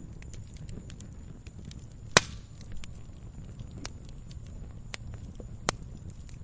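Wood fire crackling: a low rumble of flames with scattered small crackles, a sharp loud pop about two seconds in and another near the end.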